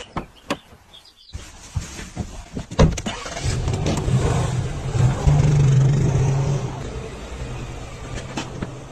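A few sharp clicks, then a sudden hiss with a machine's hum that builds, is loudest in the middle, and slowly fades. A loud knock comes about three seconds in.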